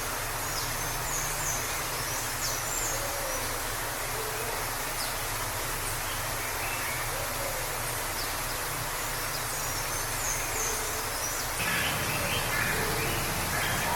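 Waterfall rushing steadily, with high bird chirps twice and louder, harsher bird calls starting near the end.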